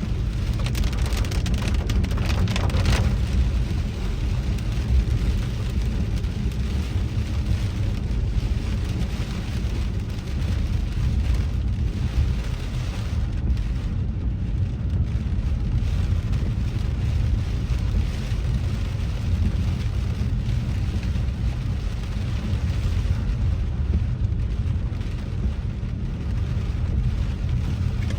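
Rain falling on a car driving through a storm, over a steady low rumble of the car and its tyres on the wet road.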